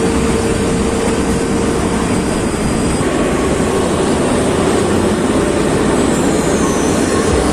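Kalka–Shimla narrow-gauge toy train running: the steady noise of its wheels on the track and the carriages in motion, heard from an open carriage window.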